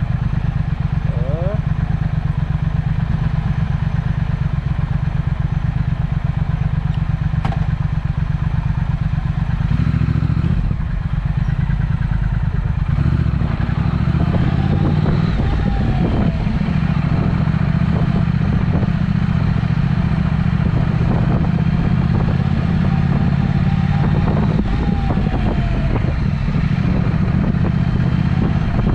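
Triumph Speed Twin parallel-twin engine running through a Vance & Hines aftermarket exhaust, a steady pulsing note for about the first ten seconds. About halfway in the note changes and becomes louder and rougher for the rest.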